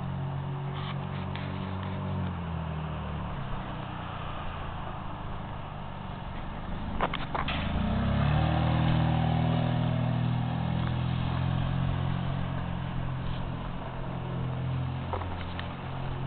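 Ridley Auto-Glide Classic motorcycle engine running steadily. About seven seconds in, after a couple of sharp clicks, it speeds up and holds at a higher, louder steady pitch.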